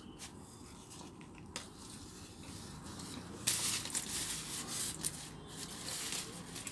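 Crunching of a crispy fried chicken burger being bitten and chewed. It is faint at first, then turns into a louder run of crackly crunches about halfway through.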